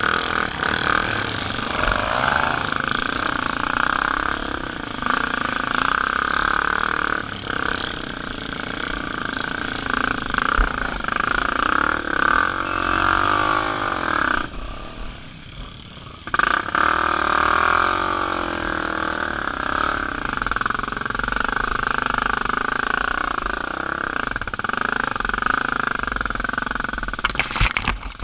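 Dirt bike engine running at high revs, its pitch rising and falling as the throttle is worked, dropping away for about two seconds midway before picking up again.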